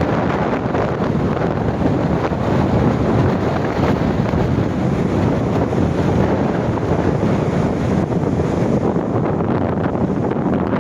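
Strong gale wind buffeting the microphone in a steady, heavy rumble, with storm waves washing up the beach beneath it.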